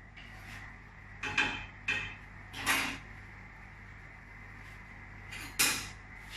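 A spoon scraping and knocking against a pan as food is dished out, four short strokes, the third a longer scrape.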